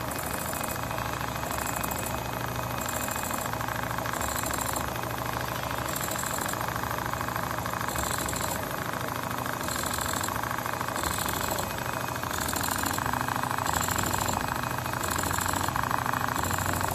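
Automatic pattern sewing machine stitching leather: a steady, fast mechanical rattle of the needle running, with a high chirp that comes and goes about once a second.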